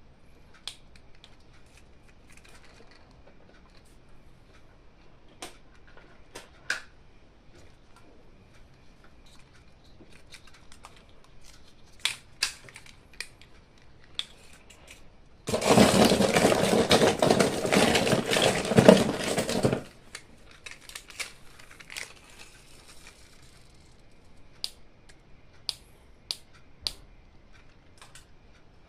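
Toy packaging and plastic toy parts being handled: scattered small clicks and taps. Just past the middle there is one loud, dense burst about four seconds long that starts and stops suddenly.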